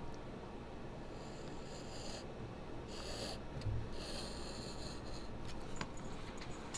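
Knife blade drawn through two stacked layers of panel material in three slicing strokes, each a scratchy rasp lasting about a second, with a dull thump between the second and third and a few small clicks near the end.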